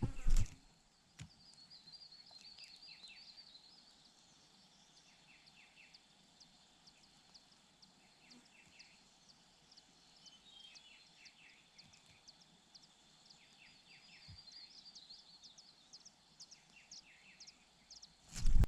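Small birds chirping faintly in series of short, high, repeated calls. There is a loud thump just after the start and another near the end.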